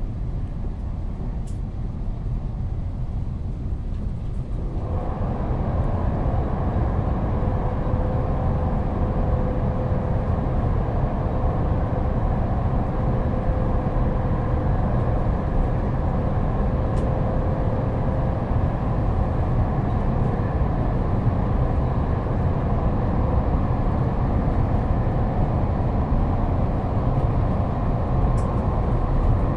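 Ambience inside a moving train carriage: a steady low rumble of the running train that grows louder and fuller about five seconds in, with a faint steady tone for a while afterwards.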